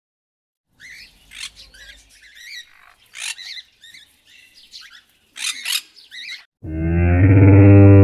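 A parrot calling with a series of squawks and chirps. About six and a half seconds in, a camel takes over with a loud, deep, drawn-out call.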